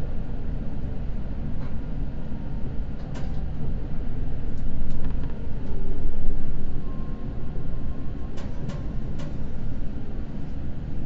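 Seibu Red Arrow limited express train running, heard from inside the carriage: a steady low rumble that swells for a few seconds midway, with a few sharp clicks and a faint thin tone late on.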